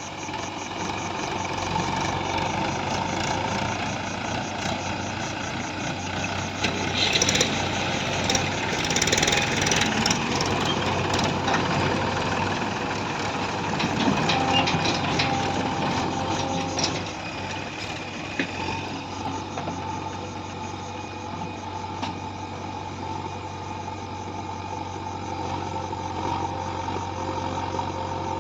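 Diesel engine of heavy farm or earth-moving machinery running steadily, busier and louder for a stretch in the middle, then settling back to a steady run.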